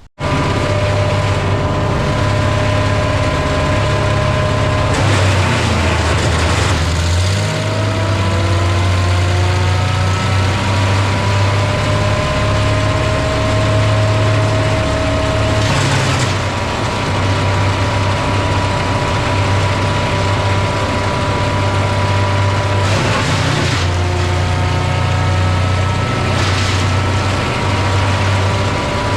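A Vermeer 1600 woodchipper running steadily, with a deep engine hum and a whine above it. The whine sags and recovers in pitch a few times, along with brief harsher surges of noise.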